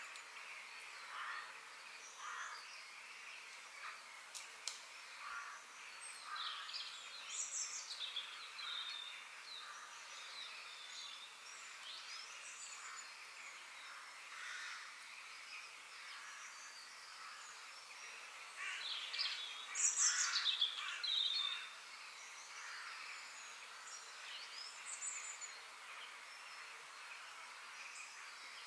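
Several forest birds singing and chirping over a faint steady hiss, with short whistled and trilled phrases and a louder flurry of calls about two-thirds of the way through.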